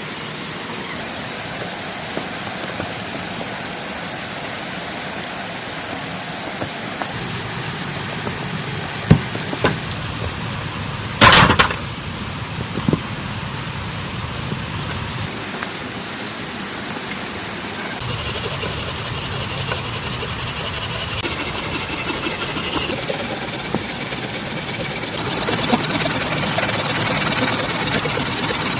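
Steady rain noise, with a few sharp knocks in the middle, one of them longer, and the rain getting a little louder near the end.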